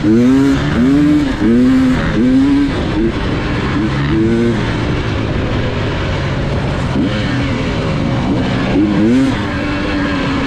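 Dirt bike engine revving up and down in quick throttle blips, about two a second for the first four seconds or so. It then runs steadier, with a few more rises in pitch near the end.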